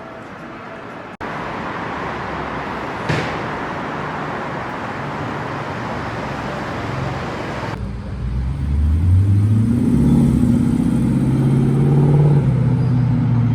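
Street traffic noise, then, after a sudden change about two-thirds of the way in, a supercar engine accelerating: its note rises in pitch and holds loud to the end.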